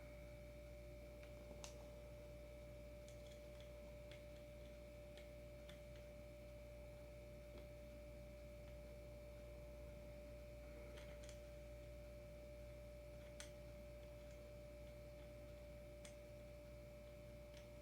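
Near silence: room tone with a faint steady electrical hum and a few very faint clicks.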